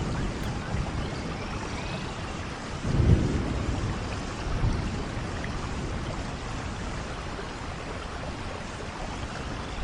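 Steady rainfall, with low rumbling swells rising out of it, the strongest about three seconds in and a smaller one about a second and a half later.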